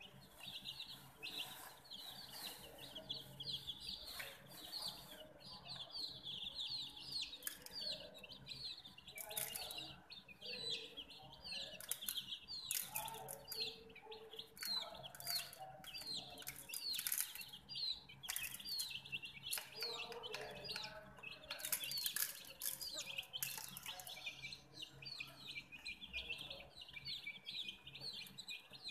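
Baby chicks peeping nonstop: many short, high, downward-sliding peeps overlapping each other, with scattered sharp taps and scratches.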